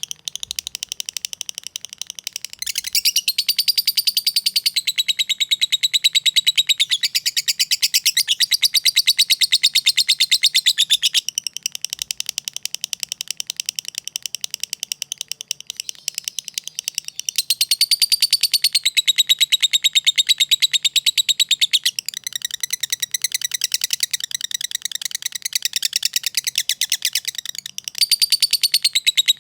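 Lovebird in a long, fast 'ngekek' and 'ngetik' chatter: an unbroken, rapid stream of high clicking and chattering notes, with louder stretches that come and go every few seconds.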